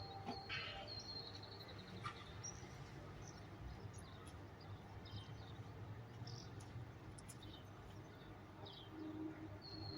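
Faint birds chirping in short, scattered calls, with a thin high trill near the start and end, over a steady low hum.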